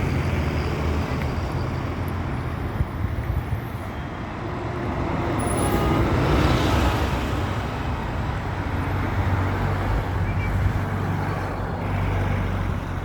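Motor vehicle traffic: a steady engine hum with road noise, growing louder about six seconds in and easing off again.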